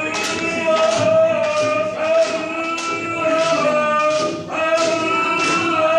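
Group of voices singing long held notes together over a steady hand-drum beat, about two strikes a second.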